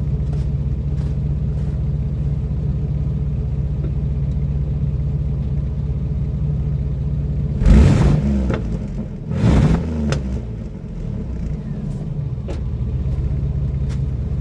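Chevy S10 pickup's exhaust idling with a steady low rumble, blipped twice in quick succession about eight and nine and a half seconds in, each rev falling straight back to idle. The exhaust, with a mocked-up tip on the tailpipe, stays as quiet as can be under the revs.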